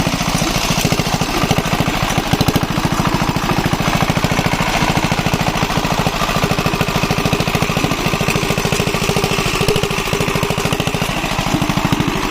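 Single-cylinder diesel engine of a shallow-tube-well irrigation pump running steadily with a rapid, even knock.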